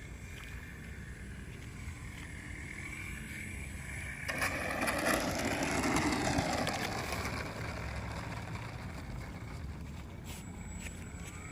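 Electric brushless motor and propeller of an RC Piper Cherokee model plane whining in flight. It grows louder from about four seconds in, is loudest around six seconds, then fades, with wind rumble on the microphone.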